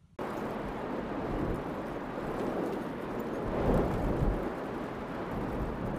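Steady rush of heavy rain that starts suddenly, with a low rumble swelling about four seconds in.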